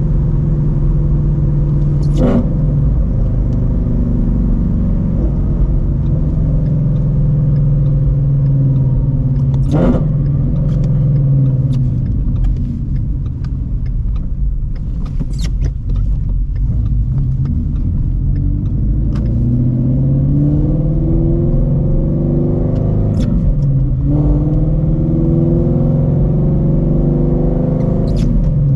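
2016 Shelby GT350's 5.2L flat-plane-crank V8 running through long-tube headers, an X-pipe and a Borla catback exhaust. It runs steadily, eases off for a stretch in the middle, then pulls up through the revs twice in the second half, with each rise cut off by a gear change.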